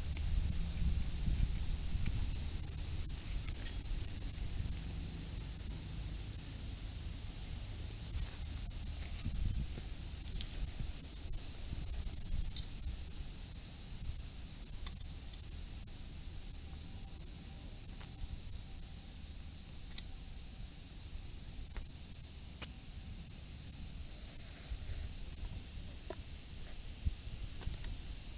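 Steady high-pitched chorus of insects, running without a break, with a low rumble underneath.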